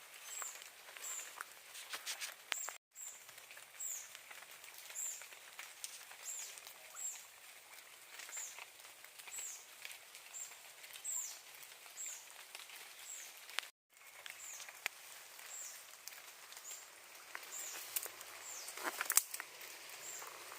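A small bird calling over and over with short, high, down-slurred chirps, about one or two a second. A few clicks and rustles come with it, louder near the end.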